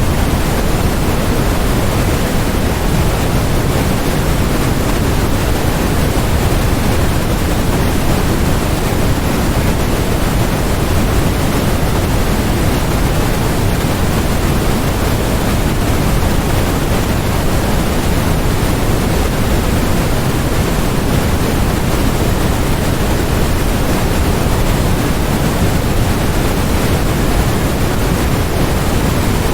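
Steady, unchanging generated noise sold as white noise: a dense, even hiss weighted toward the low end.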